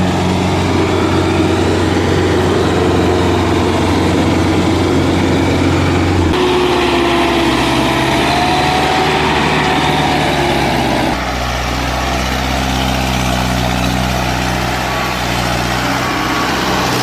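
Tractor diesel engine running steadily. Its pitch and tone change abruptly about six seconds and about eleven seconds in.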